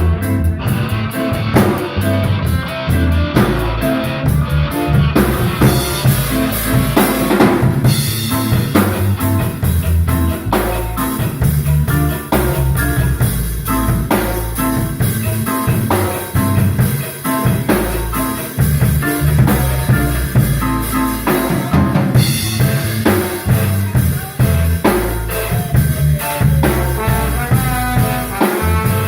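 Live instrumental band playing. A drum kit keeps a steady beat with bass drum and snare rimshots over moving bass notes and other instruments.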